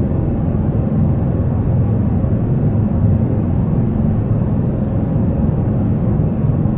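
Steady low rumble of jet airliner noise, with no clear tones or sudden sounds.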